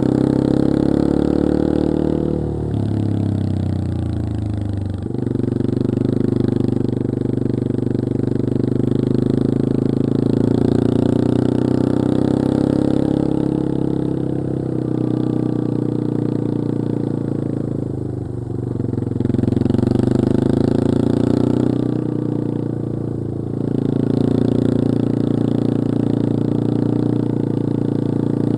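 Yamaha XT225 Serow's single-cylinder four-stroke engine running while riding. The engine note drops and picks up again a few times as the throttle is eased off and reopened.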